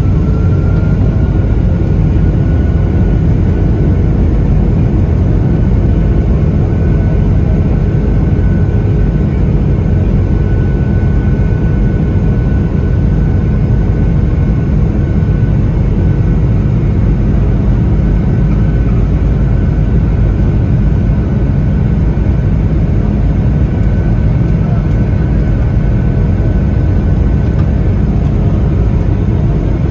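Boeing 757-200's Rolls-Royce RB211 engines at takeoff power, heard from inside the cabin: a loud, steady roar with an engine whine that rises over the first couple of seconds and then holds level.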